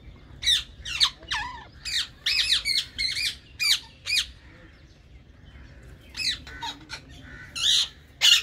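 Green Indian ringneck parrots squawking: a quick run of short, shrill calls, a lull of about a second and a half, then more calls near the end.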